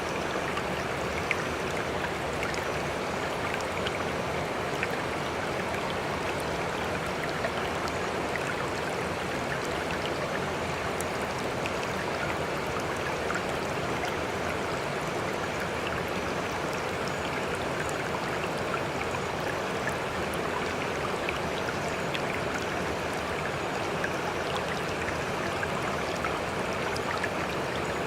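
Sea water making a steady, even rush, with faint scattered ticks and drips.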